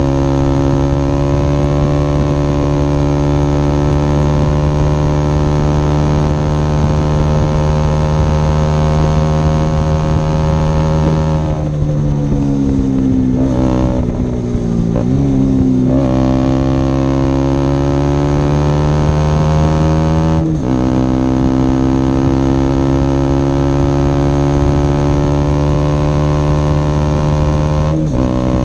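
Single-cylinder four-stroke engine of a 2011 KTM Duke 125 under way, loud through a Leovince decat pipe and an Akrapovic silencer with its dB killer removed. The engine pulls at steady revs. About 12 s in it falls off and then climbs back up. It keeps rising, with quick breaks for upshifts about 20 s in and again near the end.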